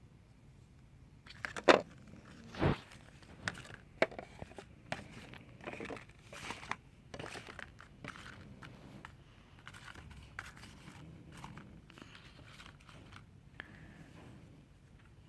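Wrapping of a soap bar being torn open and crinkled by hand, with a sharp crackle a couple of seconds in and a dull thump just after. The rustling thins out to faint, scattered handling over the second half.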